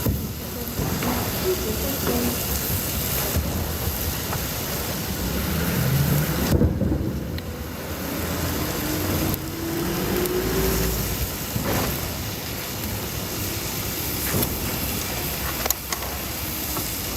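Steady rushing noise, like sizzling cooking or traffic at a street food stall, with a few faint knocks and clicks.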